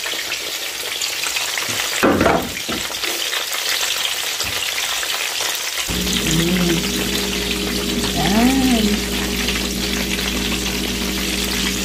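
Batter-coated shrimp deep-frying in a pan of hot oil: a steady sizzle and bubbling. There is a brief louder noise about two seconds in, and a low steady hum joins the frying about halfway through.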